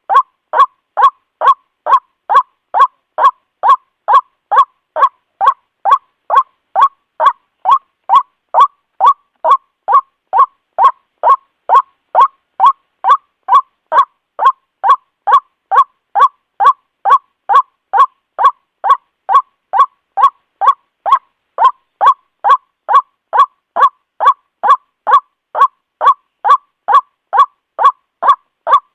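White-breasted waterhen (Amaurornis phoenicurus) calls repeated over and over in an even rhythm of about two short notes a second, with brief silences between. This is a looped trapping lure recording, used to call waterhens in.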